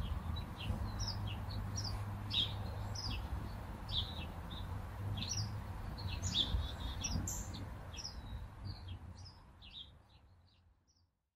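Backyard birds chirping, many short separate calls in quick succession, over a low steady rumble; the sound fades out near the end.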